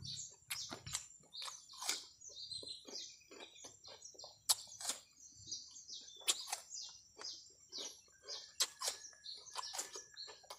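Close-up eating sounds: irregular chewing, lip-smacking and mouth clicks of a man eating rice, fish and water apple with his hands. Small birds chirp in the background.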